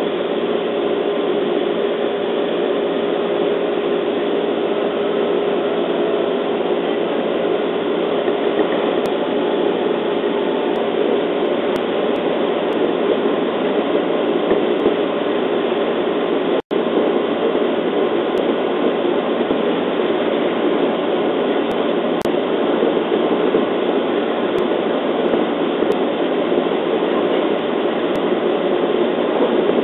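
JR East 211 series electric train running, heard from inside the passenger car: a steady noise of wheels on rail and traction motors. The sound cuts out for an instant about halfway through.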